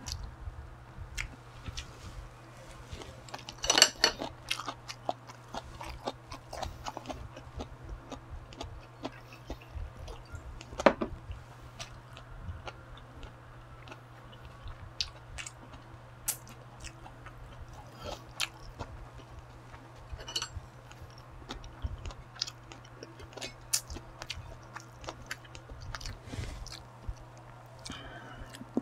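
Close-up chewing of soy-marinated crab: wet mouth sounds with many small clicks and crunches, and sharper bites about 4 and 11 seconds in, picked up on a lapel microphone. A steady low hum runs underneath.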